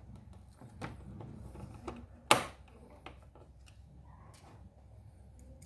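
Small clicks and taps of screws and a screwdriver as a microwave's control board is screwed back into place, with one sharp click about two and a half seconds in.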